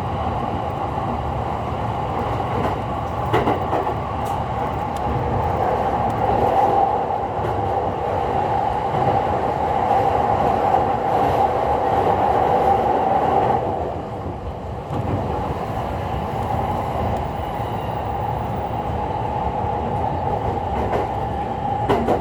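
JR East E231 series electric commuter train running between stations, heard inside the car. Its traction inverter and motors hum together with wheel and rail noise; the motor note is strongest through the middle and drops away abruptly about two-thirds of the way in, leaving steadier rolling noise.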